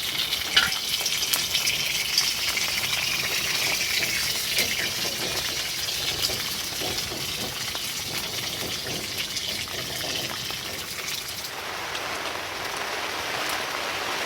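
Oil sizzling in an opened tin of sardines heated over a campfire: a steady hiss with a few sharp pops, the loudest near the start. Near the end the hiss changes to a broader, more even one.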